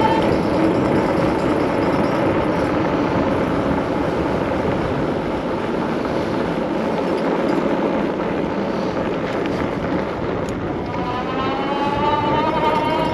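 Wind and road noise from riding an electric bike, with the e-bike's motor whine rising in pitch near the end as it speeds up.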